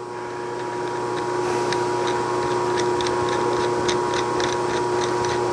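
Light irregular metallic ticking as a freshly machined threaded button is screwed onto a hydraulic cylinder shaft, the threads running on with a good fit. Under it, a steady shop machine hum.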